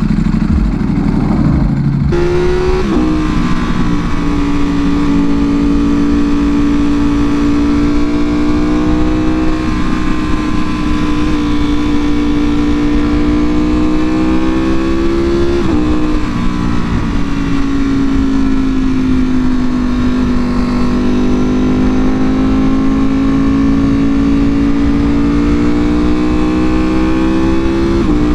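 2024 Ducati Panigale V4R's V4 engine through an Akrapovič full exhaust, running steadily under way. Its pitch climbs slowly and dips sharply about four times.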